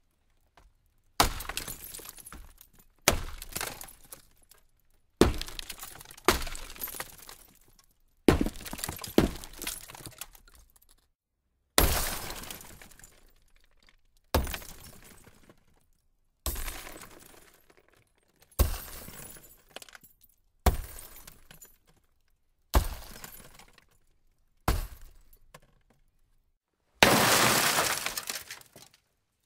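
Glass breaking in a series of about a dozen separate smashes, roughly two seconds apart, each shattering sharply and then dying away; the last one near the end is longer and denser.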